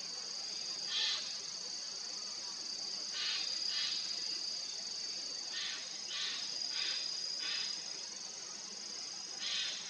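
Insects trilling steadily on a high, unbroken note, with short raspy bursts every second or two.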